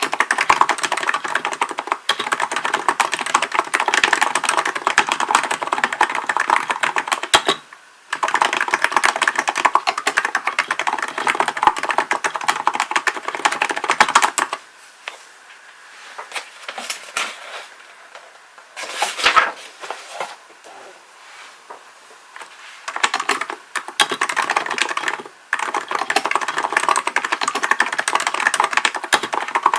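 Typing on a Hansung GK898B electro-capacitive (Topre-style) keyboard, with fast runs of soft key clacks. About halfway through, the typing thins to a few scattered keystrokes, with a brief louder flurry around the middle of that stretch, then resumes at full pace.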